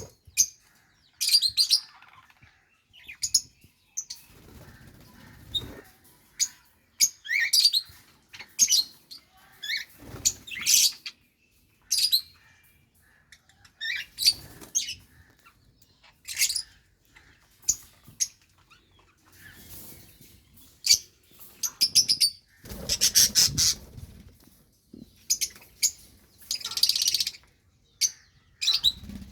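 Budgerigars chirping and chattering in many short, high calls one after another, with a few bursts of rustling movement, likely wing flapping, in between.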